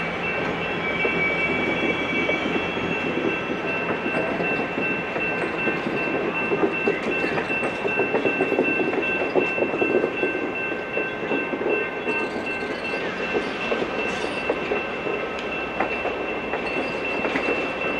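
Train led by a GP9 diesel locomotive rolling along the track, wheels rumbling and clicking on the rails, with a steady high-pitched tone held over it throughout.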